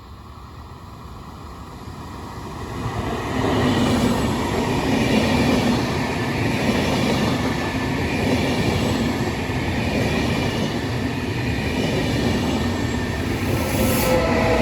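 A train approaching and running through a station: the rail noise builds from about two seconds in and is loud and steady from about four seconds on, with a few steady tones rising above it near the end.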